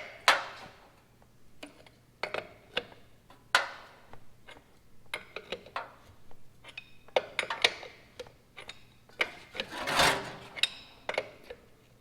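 Irregular clinks, knocks and scrapes of metal parts being handled and worked into place by hand, with a longer, louder scrape about ten seconds in.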